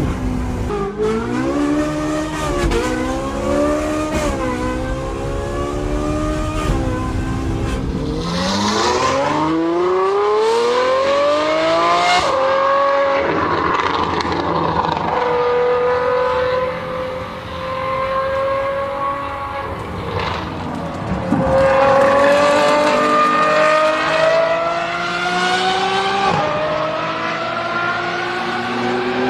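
High-revving Ferrari engine revving and accelerating hard: the pitch blips up and down a few times, then climbs in long sweeps, each cut short by a sudden drop as it shifts up a gear.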